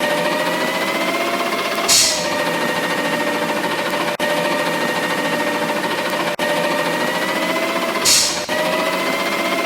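Garbage truck's diesel engine running, its pitch slowly climbing, then falling twice with a short burst of air hiss each time, about two seconds in and again near the end.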